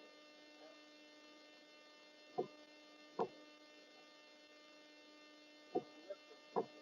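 Faint steady electrical hum, a buzzy tone with many overtones, broken by four brief soft knocks.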